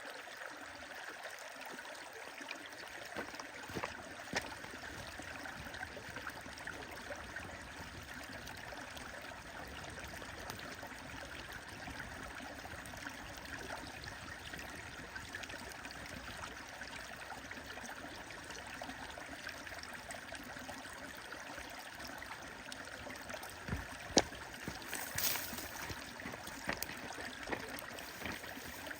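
A stream running steadily, with a few sharp pops and crackles from a burning campfire, the loudest about twenty-four seconds in.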